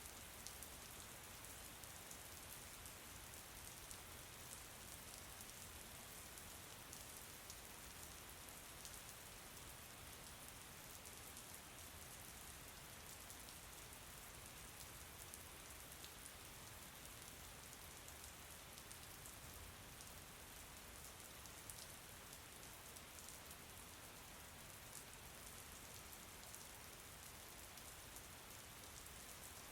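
Faint, steady rain falling, an even hiss with a fine patter of drops.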